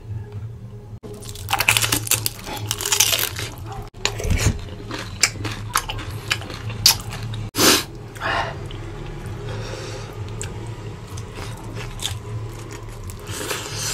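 Close-up chewing and biting of fried vegetable spring rolls: a dense run of crisp crunches a couple of seconds in, then scattered sharp clicks and softer chewing.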